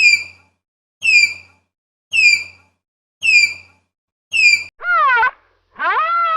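Animal calls: a short falling squawk repeated five times about a second apart, then two longer, lower calls that rise and fall in pitch.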